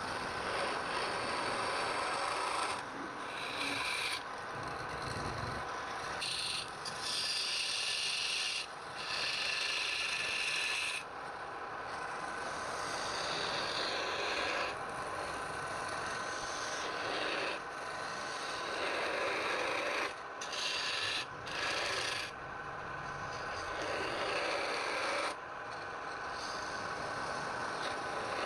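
Wood being worked on a turning lathe: a continuous rasping scrape of tool or abrasive on spinning wood, changing in tone and briefly letting up several times.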